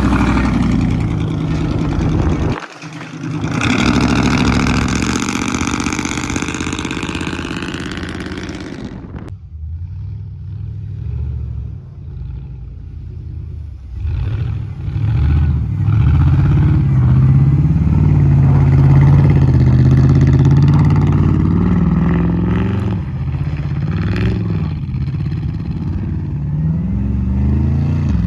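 Loud pickup-truck exhausts running and revving in several short clips cut together; the sound changes abruptly a few times. Near the end an engine is revved up and down repeatedly.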